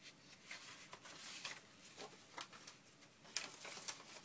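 Sheets of paper rustling and crinkling as they are handled and sorted, with a couple of sharper crackles near the end.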